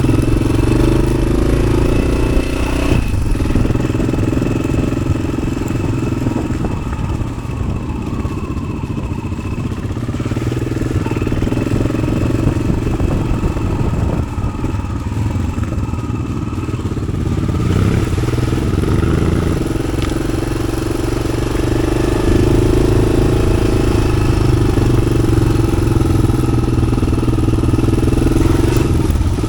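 Yamaha XT600's single-cylinder four-stroke engine running as the motorcycle is ridden off-road, through an Arrow aftermarket exhaust. The engine note eases off a little in the first third and grows louder again in the last third.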